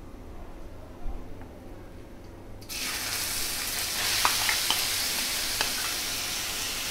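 Finely chopped onion tipped into hot oil in a steel kadhai, setting off a sudden sizzle about two and a half seconds in that carries on steadily. A few light clicks of a spatula scraping the onion out of the bowl sound over it.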